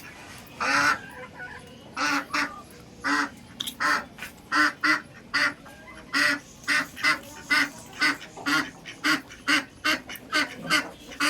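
Domestic ducks quacking in a run of short, harsh calls that come quicker and more regularly from about four seconds in, roughly two a second.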